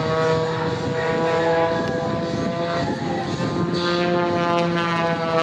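Aerobatic aircraft flying the display, its engine and propeller giving a steady drone that drifts slightly down and back up in pitch.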